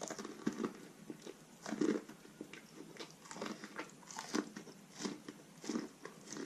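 Close-up eating of roasted corn on the cob: biting and chewing with small crunches of the kernels, about two a second.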